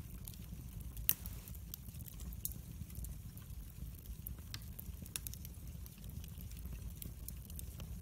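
Wood fire burning in a fireplace: irregular crackles and pops over a steady low rumble of the flames, with one louder pop about a second in.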